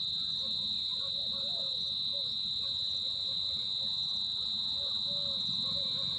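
Steady high-pitched insect chorus, an unbroken trill that does not change.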